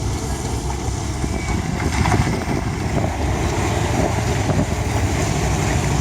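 Wind buffeting the microphone over the steady wash of a passing vessel's wake waves reaching the shore.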